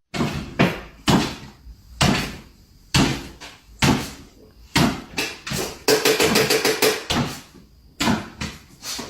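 Repeated sharp knocks, roughly one a second, each dying away quickly.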